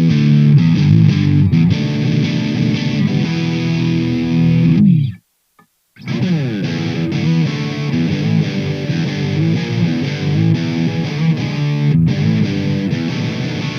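SQOE SETL650 HH electric guitar with twin humbuckers played through overdrive, chords and riffs ringing out. About five seconds in the notes slide down in pitch and stop for a moment, then the playing picks up again.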